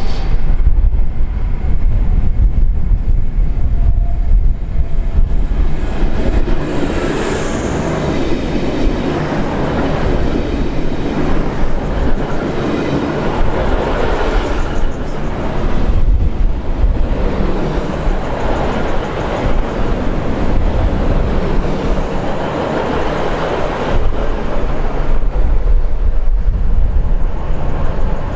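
Diesel passenger train running past, a loud steady rush of wheels on rail that builds about six seconds in.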